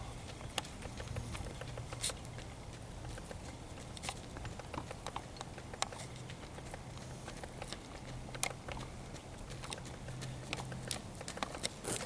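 Downy woodpecker pecking: sharp, irregular taps about a second apart, some in quick clusters.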